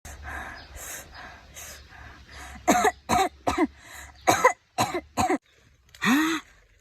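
A series of about eight short, loud vocal sounds, each with a rising-then-falling pitch, after a couple of seconds of softer breathy noise.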